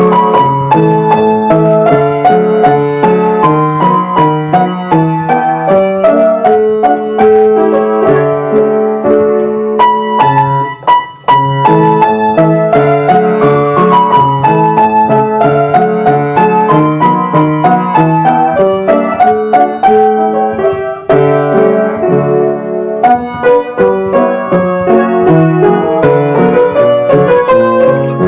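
A piano being played: a melody over a steady, repeating low accompaniment, with a short break about eleven seconds in.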